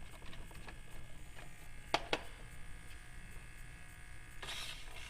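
Plastic plow parts of a Kyosho Blizzard RC snowcat being moved to check clearance under the body cover: two sharp clicks about two seconds in and a brief rustling burst near the end, over a steady electrical hum.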